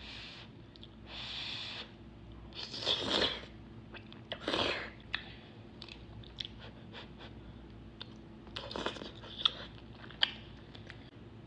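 Close-miked mukbang eating sounds: several noisy, crunchy mouthfuls in the first few seconds, then chewing with small wet clicks and two sharp clicks near the end.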